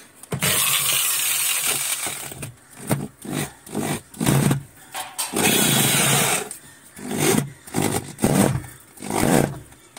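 A power driver tightening the screw that holds a washing machine's pulsator onto its shaft. It runs in stop-start bursts: one long run of about two seconds at the start, then a series of short pulses until the pulsator is tight.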